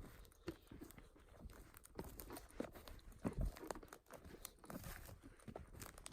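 Irregular crunching and crackling of twigs and leaf litter on the forest floor, with one heavier knock about halfway through.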